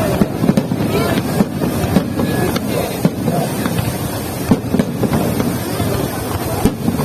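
Fireworks going off in an irregular series of bangs, with crowd voices underneath.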